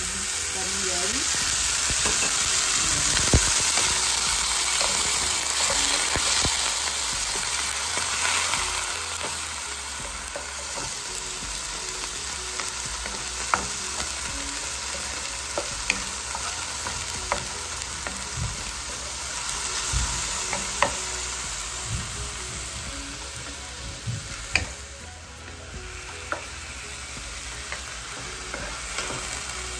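Food sizzling in hot oil in a pan while being stir-fried, with sharp clicks now and then. The sizzle is louder early on and drops briefly near the end.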